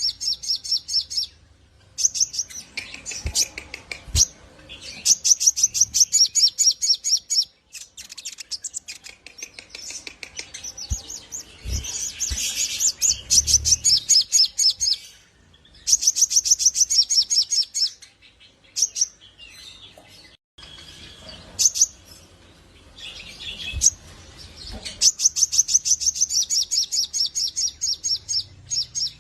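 Sogok ontong (crimson sunbird) singing in long runs of fast, high, rapidly repeated notes, each run lasting a few seconds with short pauses between.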